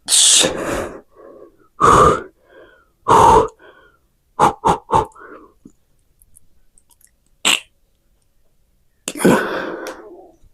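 A man's forceful breathing and grunts of effort, in separate bursts with pauses between, as he lifts a dumbbell through skull-crusher reps; three short puffs come in quick succession about halfway through.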